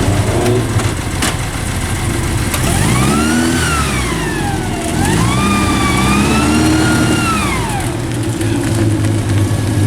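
Car engine idling, then revved up and back down twice, a high whine rising and falling with the revs before it settles back to idle.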